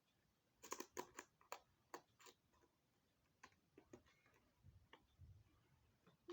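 Faint, irregular clicks and light taps: a quick run of them in the first second or two, then scattered ones, with a faint low rumble near the end.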